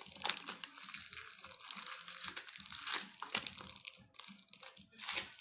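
Small toy packaging being torn open and crinkled by hand, in irregular crackles with louder tears about three seconds in and near the end.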